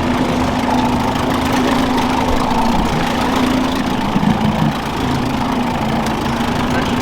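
Outboard boat motor running steadily at low trolling speed, a constant engine hum.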